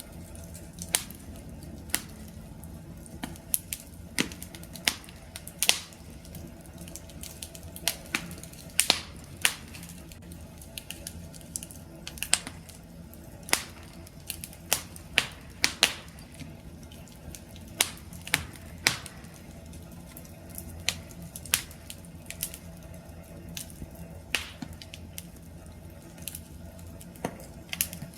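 Wood campfire crackling: irregular sharp pops and snaps, about one or two a second, over a low, steady rumble of burning.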